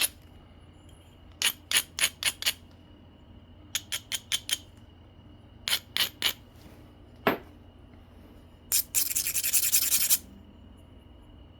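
Knapping on an obsidian biface: several quick runs of sharp clicks, then about a second and a half of rough scraping as an abrading stone is rubbed along the edge.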